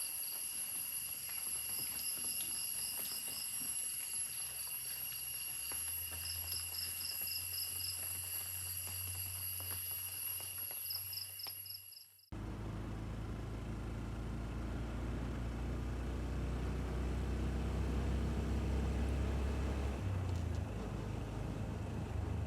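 Forest insects calling, with steady high-pitched tones and a rapidly pulsing trill over them. About halfway through it cuts abruptly to the low, steady drone of a vehicle engine running.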